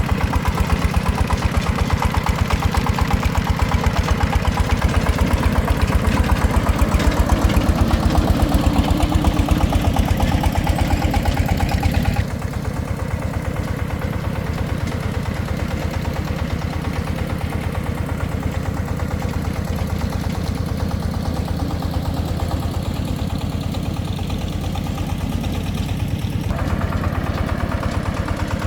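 An engine running steadily with a fast, even firing beat. About twelve seconds in the sound changes abruptly and becomes somewhat quieter and duller, and it shifts again near the end.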